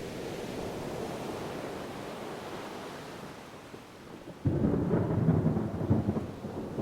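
Ocean surf washing steadily. About two-thirds of the way through, a low rumble of thunder breaks in suddenly and rolls on, louder than the surf.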